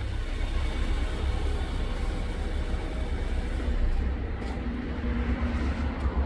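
Car engine running with a steady low rumble as the car is driven slowly out and backed up.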